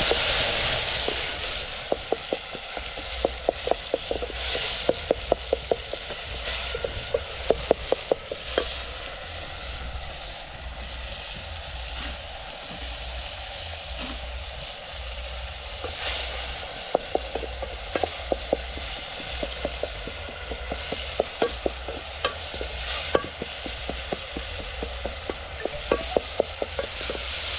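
Food frying in a pot with a steady sizzle, while a spoon stirs it and knocks against the pot in quick runs of taps.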